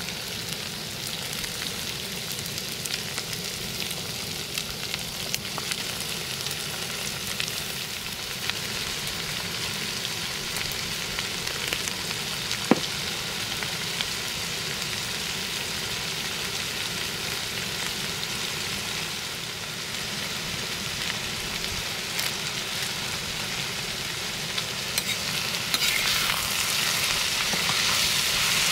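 Food frying in hot oil in a kadhai: a steady sizzle with scattered small crackles and one sharp click about halfway through. The sizzle grows louder near the end.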